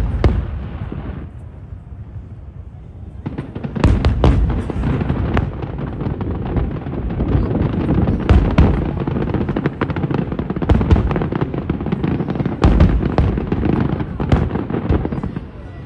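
Aerial fireworks shells bursting in a rapid barrage: deep booms and sharp cracks over a continuous rumble. There is a short lull near the start, then the bursts come thick and fast from about three seconds in.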